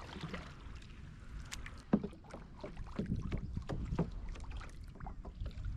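Paddle strokes splashing and dripping, with water lapping against the hull of a Vibe Shearwater 125 fishing kayak on slightly choppy water. There is a sharper splash or knock about two seconds in, over a low rumble.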